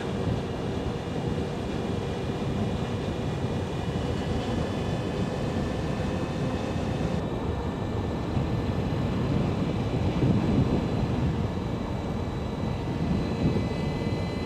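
Wind and road rumble from riding an Energica Experia electric motorcycle at steady speed, with the thin, steady high whine of its electric drivetrain on top.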